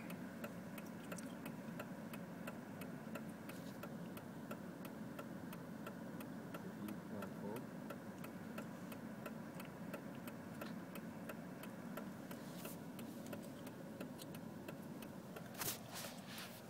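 Rapid, even ticking, about three ticks a second, typical of a car's hazard-light flasher, over the low, steady hum of an idling engine heard inside the cabin. A brief louder rustle comes near the end.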